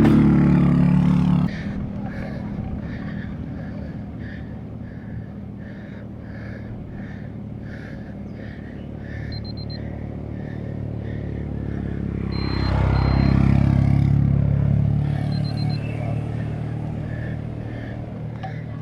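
Motor vehicles passing on the road: one engine cuts off sharply about a second and a half in, and another swells and fades away a little past the middle, over a steady road rumble.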